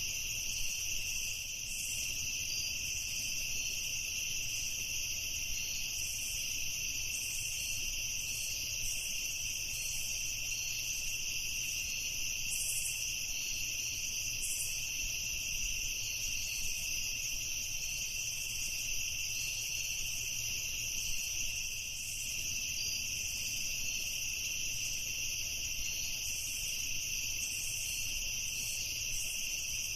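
Chorus of crickets chirping steadily at night, many high-pitched trills overlapping into a continuous drone.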